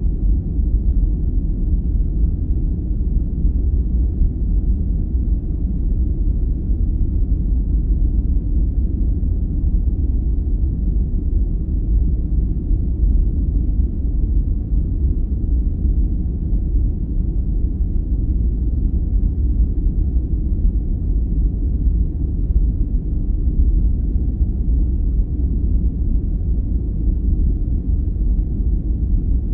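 Steady, deep sleep-aid noise that sits almost entirely in the low end with no high hiss, a dark rumble like brown noise. It holds even, with no separate events.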